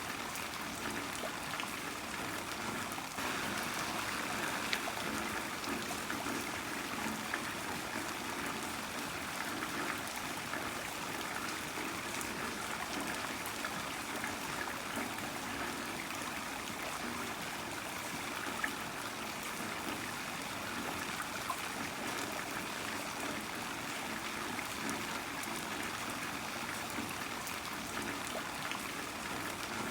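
Heavy rain falling steadily, a dense even hiss with many small drop ticks and splashes.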